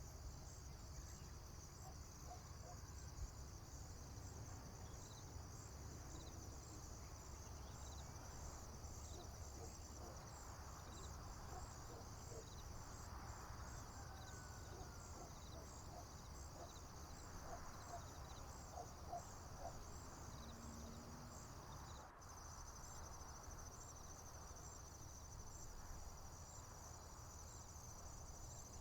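Faint, steady chorus of crickets and other insects trilling high and fast, over a low rumble. A few faint short calls sound in the middle. The trilling breaks off for an instant about 22 seconds in, then carries on.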